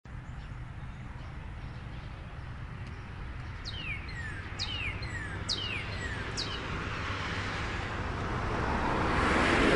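Street ambience: a steady low traffic rumble, with a bird giving four falling chirps about halfway through. A vehicle's noise grows louder near the end as it approaches.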